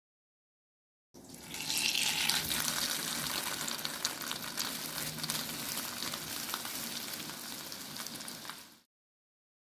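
Breaded chicken burger patty frying in hot oil in a small frying pan: a dense sizzle full of crackles that starts suddenly about a second in, is loudest at first, then settles and cuts off abruptly near the end.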